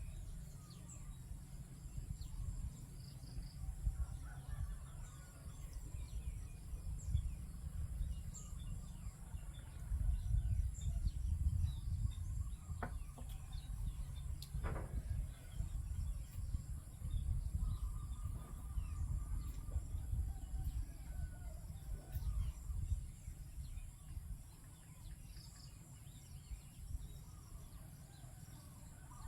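Morning rice-field ambience: scattered bird calls and chirps, with two sharper calls about halfway through, over a steady high insect drone and a constant low rumble.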